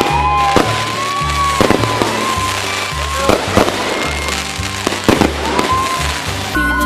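Fireworks bursting, several sharp bangs spread across a few seconds, over pop music.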